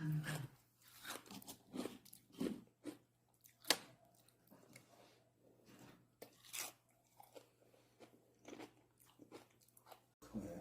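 A person eating: irregular short bites and chewing sounds with quiet gaps between them.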